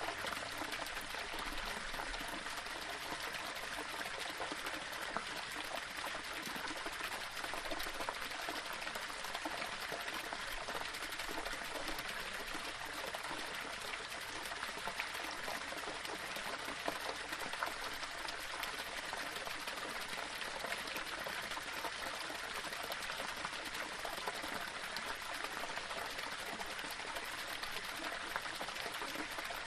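Small waterfall flowing over stones: a steady rush of falling water with fine splashing and trickling.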